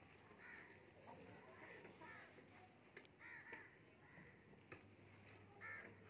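Near silence with a few faint, short bird calls scattered through it, each a brief arching cry.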